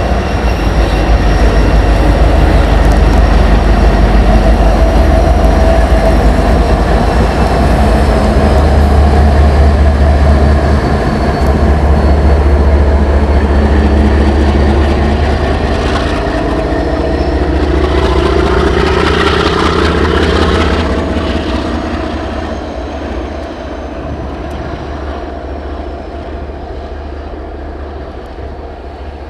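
Diesel freight locomotive engines running loud and close, with a heavy low rumble. About two-thirds through, a whine rises and falls, and then the sound fades steadily as the locomotives move away.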